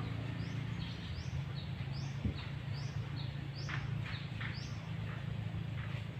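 A small bird chirping: a string of short, high, quickly rising notes about two a second, over a steady low hum.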